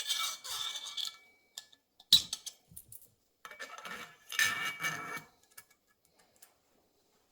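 Small metal parts clinking and rattling as they are handled: a jingling clatter at the start, a sharp metallic knock about two seconds in, and another clatter a little before the middle, then quiet.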